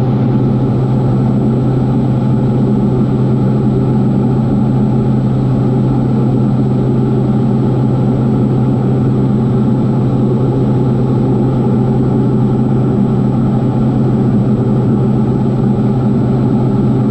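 Steady drone of a Diamond DA40 NG's turbo-diesel engine and propeller at climb power during the initial climb after takeoff.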